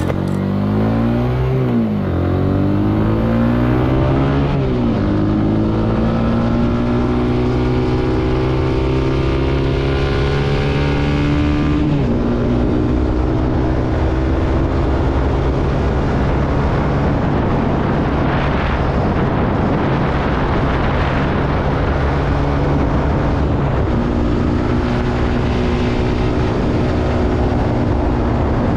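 Zontes C125's 125 cc single-cylinder engine under way on the road, heard with wind rush. Its pitch climbs and drops back twice in the first few seconds, rises steadily for several seconds, falls suddenly about twelve seconds in, holds steady, then steps up again near the end.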